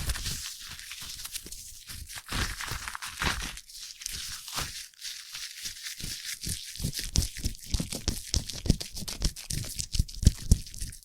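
Foam crackling and squishing close to the microphone: a dense, irregular crackle of tiny popping bubbles over a high hiss, with soft low thumps and a few louder crackles near the end.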